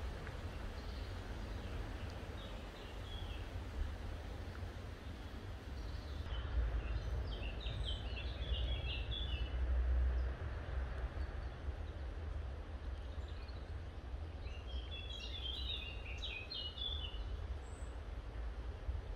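Garden ambience: a bird chirping in two flurries of quick high notes, one near the middle and one later, over a steady low rumble and hiss.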